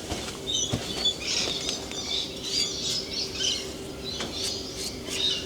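Birds chattering and squawking, many short high calls overlapping, with a few light knocks.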